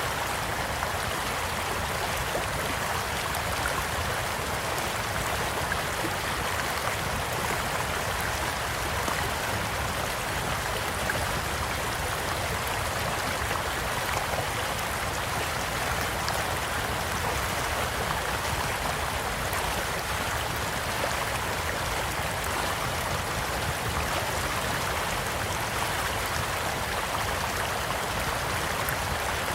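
Steady rushing of a small stream, with a few faint pops from a wood campfire now and then.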